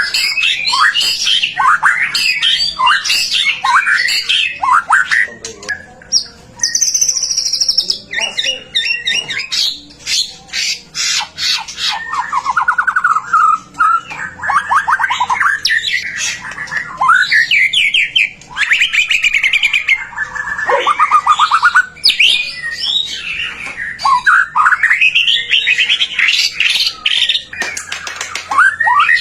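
White-rumped shama (murai batu) singing a loud, varied, nearly unbroken song of fast rising sweeps, rapid trills and sharp clicking notes. It is the full, in-form 'gacor' song used to goad other shamas into singing.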